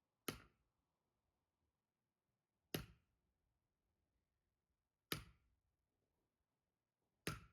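Firewood being split: four sharp strikes of a splitting tool on wood, about two and a half seconds apart.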